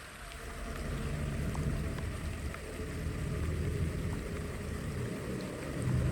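Floodwater rushing and gurgling into a cleared drain: a steady low rumble that swells about a second in.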